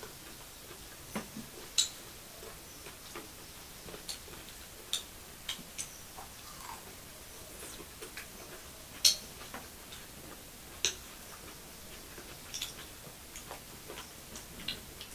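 Close-miked eating sounds: irregular wet mouth clicks, lip smacks and chewing as chicken leg pieces are gnawed off the bone and food is eaten by hand. The clicks come a second or two apart, the sharpest about two, nine and eleven seconds in.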